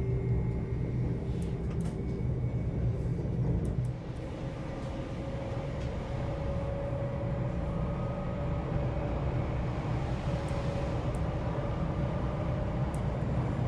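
Cabin noise of an SOB Traverso (Stadler FLIRT) electric train running: a steady low rumble from the running gear on the rails, with a faint whine that rises slightly in pitch around the middle, and a few light clicks.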